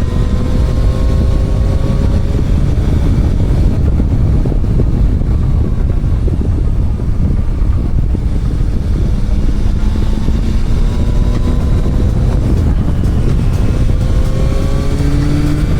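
Motorcycle engine running under way, its pitch climbing slowly a few times as it pulls through the gears, under heavy wind buffeting on the camera's microphone.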